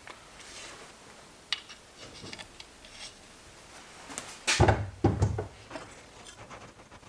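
Metal parts and tools being handled on a workbench: scattered light clicks and taps, then two heavy clunks with a rattle a little past halfway.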